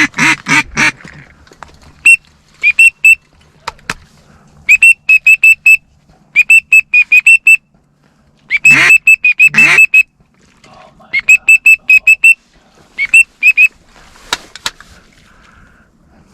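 Duck calls: bursts of three to six short, high, evenly spaced whistle notes, repeated many times, with a quick run of quacks in the first second.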